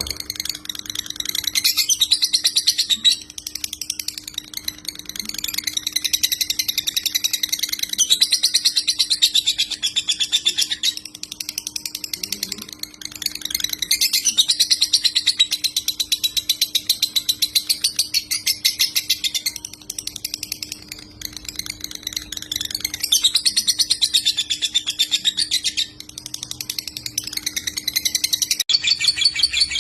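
Lovebird chattering in long, rapid-fire runs of high chirps lasting several seconds each, broken by short pauses, in the stuttering 'konslet' style. A faint steady low hum lies under it.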